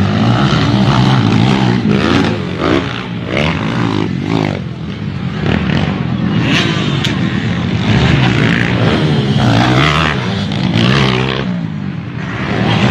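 Small dirt-bike engines running and revving up and down, steady and loud throughout.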